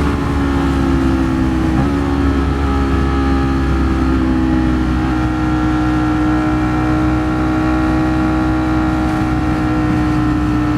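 Ducati Streetfighter V4 S's V4 engine running at steady highway speed, over a constant low wind rumble. The engine note jumps slightly about two seconds in, then holds and creeps gently upward.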